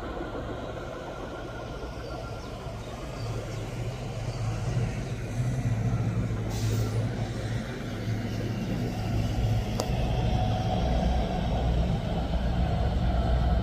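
Low rumble and hum of an approaching train, growing louder, with a short hiss about halfway through and a sharp click near the end.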